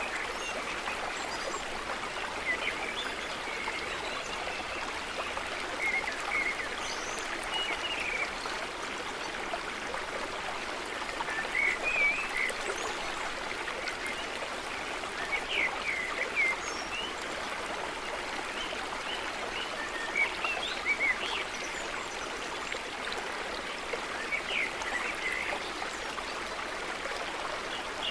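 A stream running steadily, with short chirping bird calls coming in scattered clusters over it.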